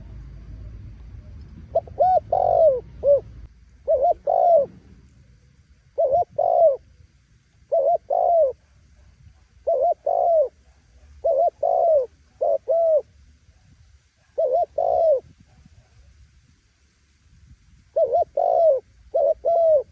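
Spotted dove cooing loudly in short two- and three-note phrases, one about every one to two seconds, with a pause of about two seconds near the end. It is the kind of call used to stir wild doves into cooing back.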